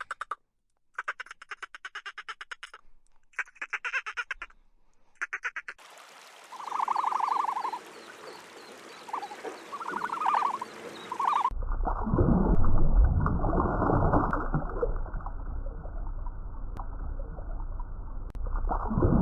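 Bursts of rapid, rattling animal calls, then a few short calls over background noise. After that comes a loud, steady, muffled rumble like wind on the microphone or waves.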